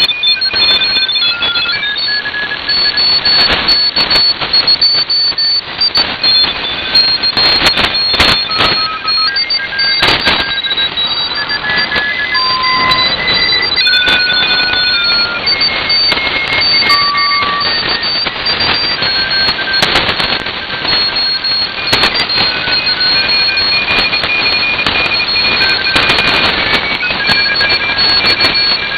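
Shortwave radio receiver audio: several Morse code signals at different pitches keying on and off at once over a steady hiss of band noise. Frequent crackles of static run through it.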